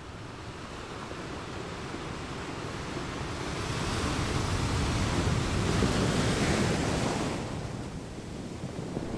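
Choppy sea water splashing and rushing, with wind buffeting the microphone; it builds over a few seconds, is loudest about halfway through, then eases off.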